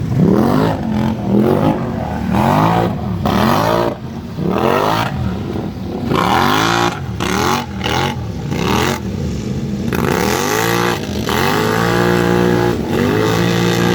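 An off-road vehicle's engine revved hard again and again, its pitch climbing and dropping about once a second as it fights through mud, then held at high revs for the last few seconds.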